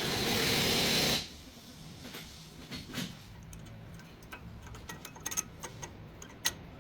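A hiss from a spray or air jet lasting about a second, followed by scattered light metallic clicks and ticks of tools and parts being handled.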